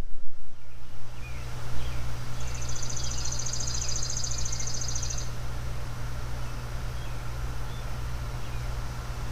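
A steady low hum with an insect's high, rapidly pulsing buzz from about two to five seconds in, and faint bird chirps.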